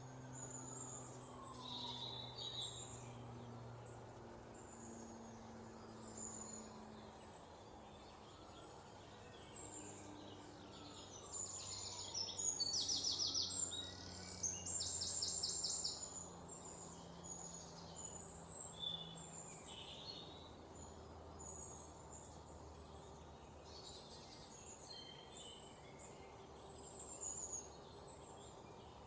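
Several songbirds chirping and whistling, with two loud rapid trills about twelve and fifteen seconds in.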